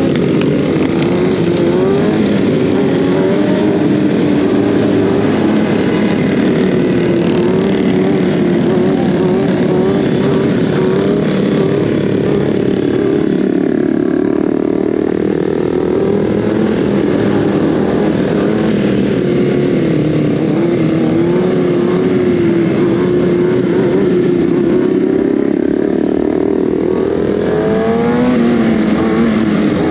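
Kawasaki ZX-6R 636's inline-four engine running under way, its pitch wavering with the throttle. It eases off about halfway through and climbs again near the end as the bike accelerates.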